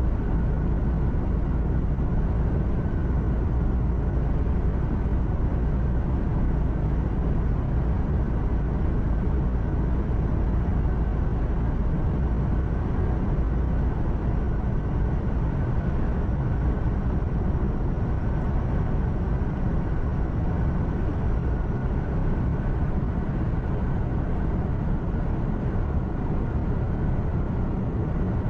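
A truck's engine and road noise droning steadily from inside the cab while driving, deepest in the low end, with no change in pace.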